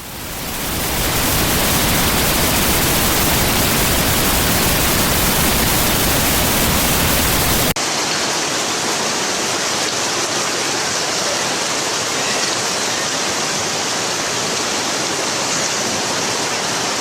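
Rushing floodwater, a loud steady rush of water. About eight seconds in it cuts abruptly to a different clip, where the rush is thinner and hissier with less low rumble.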